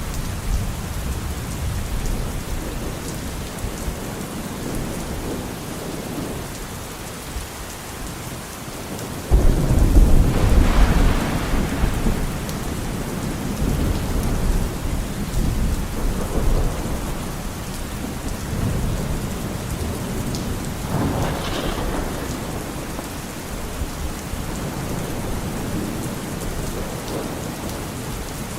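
Steady rain with thunder: a loud clap breaks about nine seconds in and rumbles on for a few seconds, and a shorter roll of thunder comes about two-thirds of the way through.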